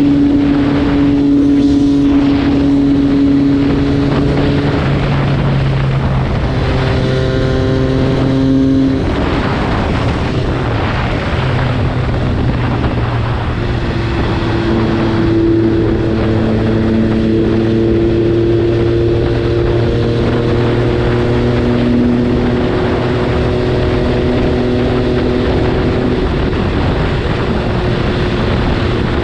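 MV Agusta F3 675's three-cylinder engine running while the bike is ridden. The engine note shifts a few times in the first ten seconds, then holds fairly steady over a rushing background.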